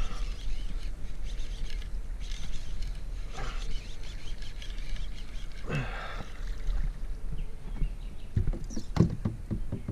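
A bird calling twice, a few seconds apart: harsh calls that drop steeply in pitch. Near the end comes a quick run of knocks and clicks.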